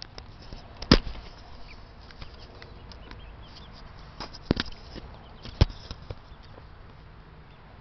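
A few sharp knocks or taps: the loudest about a second in, then a pair around four and a half seconds and another near five and a half seconds, over a faint steady background.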